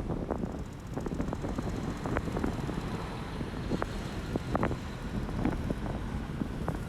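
Strong wind buffeting a phone's microphone: a heavy low rumble broken by many irregular crackling pops.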